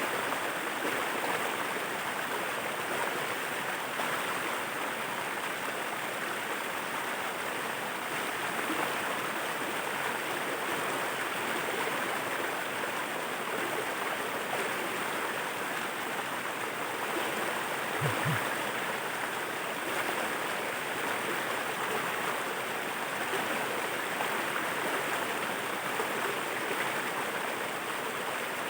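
Waterfall water rushing and splashing in a steady, even wash. A brief low thump comes about two-thirds of the way through.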